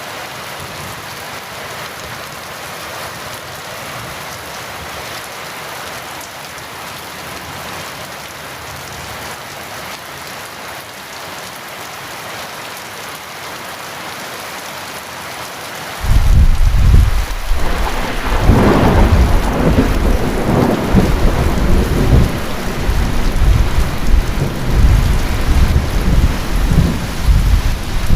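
Steady heavy rain. A little over halfway through, thunder breaks in suddenly and loudly, swells a couple of seconds later, then keeps rolling and rumbling over the rain.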